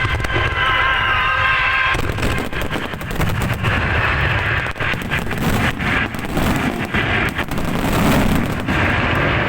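Fireworks finale: a rapid barrage of aerial shell bursts, bang after bang in quick succession with deep booming, starting in earnest about two seconds in. Before that, a steady tune plays over a low rumble.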